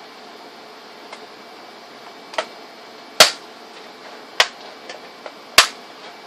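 A handful of sharp clicks at uneven spacing, the three loudest a second or so apart, over a steady hiss.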